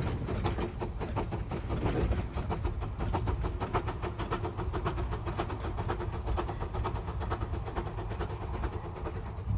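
Andrew Barclay narrow-gauge steam locomotive running, with a fast, even series of beats.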